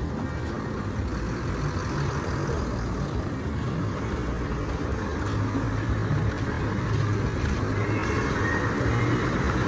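Road traffic: vehicle engines running close by, with a low engine hum growing louder from about halfway through.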